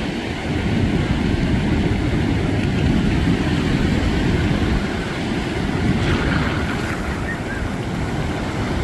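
Wind buffeting the microphone in a steady low rumble, with ocean surf washing ashore behind it.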